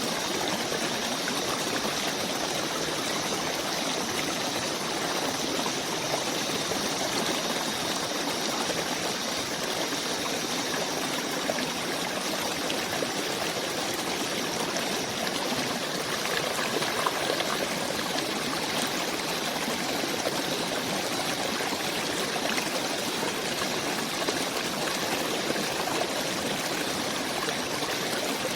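A stream of running water making a steady, even rush, with faint high steady tones over it during the first half.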